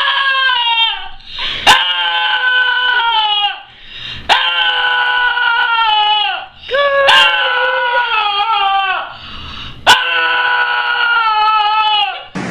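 A dog howling: five long, drawn-out howls in a row, each falling in pitch as it trails off. A short sharp click comes between the howls.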